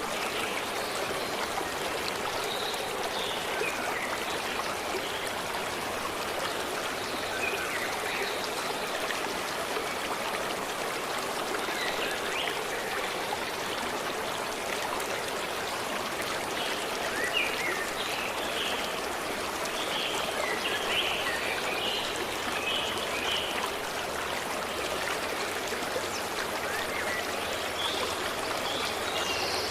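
A forest stream flowing steadily over stones, with small birds chirping on and off above it, most busily past the middle.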